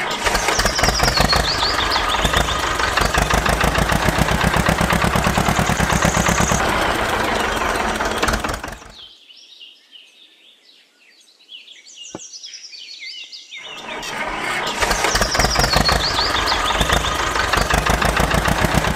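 Small engine running with a fast, even putter, which fades out about nine seconds in. Birds chirp in the pause. The engine starts again about fourteen seconds in.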